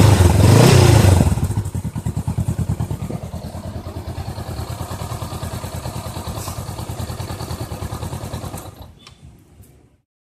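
Honda Rebel 500's parallel-twin engine heard through its exhaust: a rev in the first second or so, then it drops back to a steady, evenly pulsing idle that fades away near the end.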